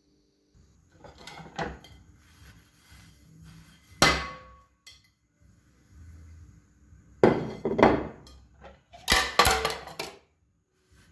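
Kitchenware handled and set down: a sharp knock with a short ring about four seconds in, then two quick runs of clattering near the end.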